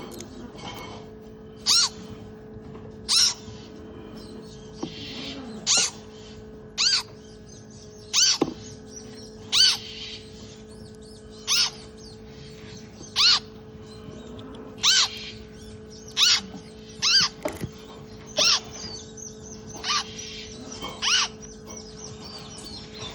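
Parrot hatchling peeping: short, high calls repeated every second or two, with a steady hum underneath.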